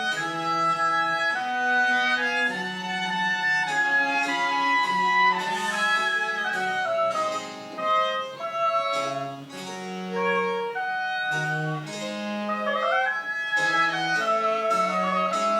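Small chamber ensemble of wind and string instruments playing French Baroque music. A melodic line moves over a steady line of low bass notes.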